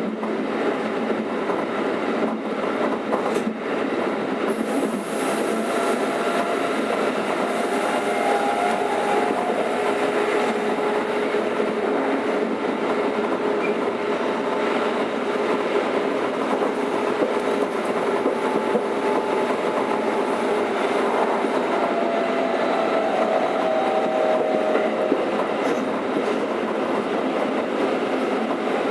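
Keikyu 600 series electric train (motor car DeHa 601-8, Toyo-built VVVF inverter), running between stations and heard from inside the car. A steady rumble of wheels on rails carries a mid-pitched whine that wavers slightly in pitch.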